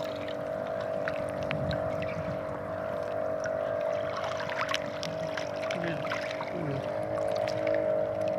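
Small boat's engine running at a steady pitch, with water splashing and sloshing.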